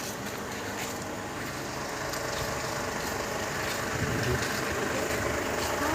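A vehicle engine idling steadily, with a low rumble that swells slightly about four seconds in.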